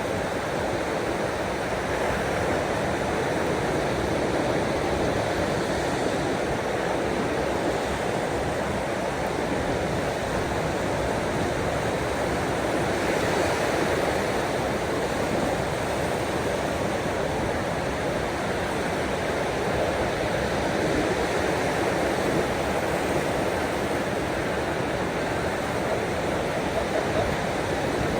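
Steady, even rush of water noise, with no surges or breaks.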